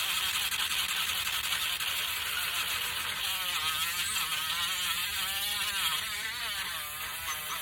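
Electric power sander running on wood, a steady whir with a tone that wavers up and down through the middle seconds.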